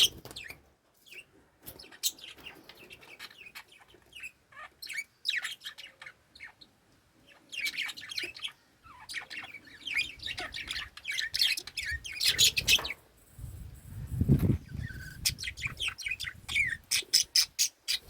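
Pet budgerigars chirping and chattering in irregular bursts of short, high notes, with a quick run of chirps near the end. A low rumbling thud sounds about fourteen seconds in.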